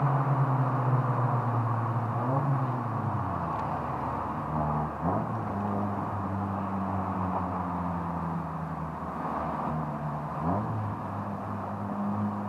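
Four-cylinder car engine heard from inside the cabin. Its revs fall a few seconds in, and three times the engine note rises quickly in brief rev blips.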